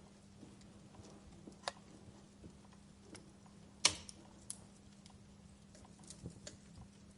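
Wood fire crackling in a fireplace: scattered, irregular pops and snaps, the loudest a sharp pop about four seconds in.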